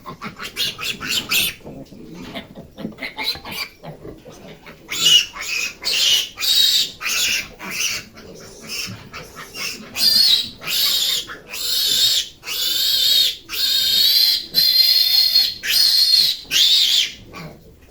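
Piglets squealing: scattered short calls at first, then from about five seconds in a run of loud, high squeals, some held for about a second.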